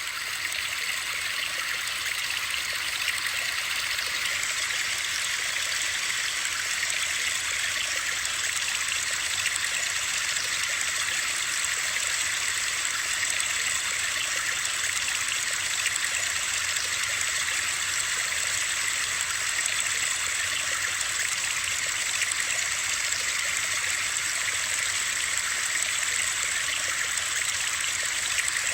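Steady white-noise sleep sound: an even, unbroken water-like hiss, mostly high-pitched with little low end.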